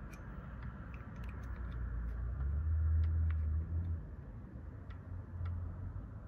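Scattered light clicks and ticks over a low, uneven rumble that swells for a second or so a little past the middle.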